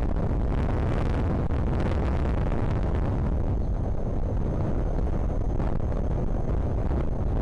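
Strong gusting wind buffeting the nest camera's microphone: a steady, heavy low rumble.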